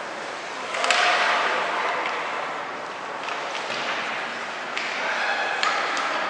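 Game noise in a large hall: a steady murmur of crowd voices, with a few sharp knocks and slaps from play, the loudest about a second in.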